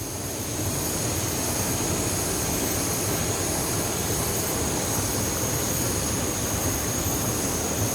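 Waterfall water rushing over rocks into a pool: a steady, even roar with a thin, steady high-pitched tone above it.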